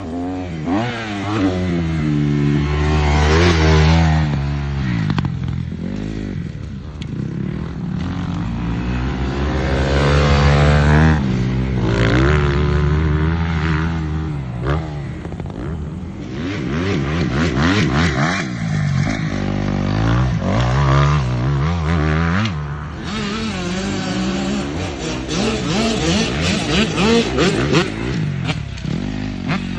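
Kawasaki KX250 dirt bike engine running hard, its pitch repeatedly climbing as it revs up and then dropping back.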